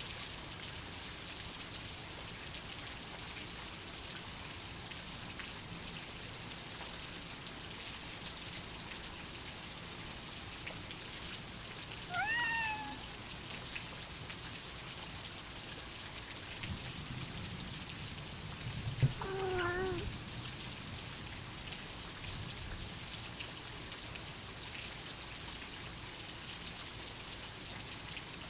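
Steady heavy rain, with a domestic cat meowing twice: a short meow about twelve seconds in and a second, wavering one about seven seconds later. A single short sharp knock comes just before the second meow.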